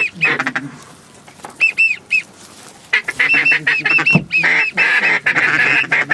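Goose honking: loud runs of short, high, rising-and-falling honks, a brief run about a second and a half in, then a longer, quicker run from about three seconds in.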